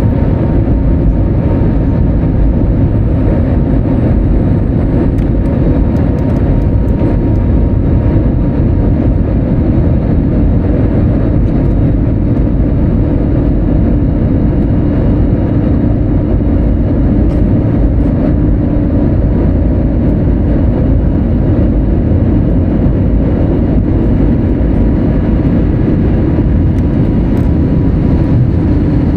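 Steady cabin noise inside an Airbus A320neo: a loud, unbroken drone of engines and airflow with a faint steady whine.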